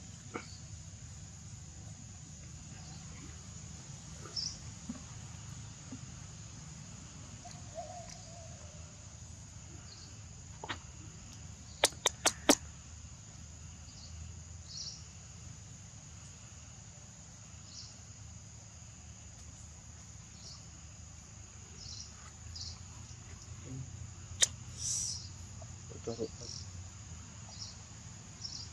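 Outdoor ambience with a steady high insect drone, short high-pitched animal calls now and then, and a low rumble. About twelve seconds in comes a quick run of four sharp clicks, and another single click later.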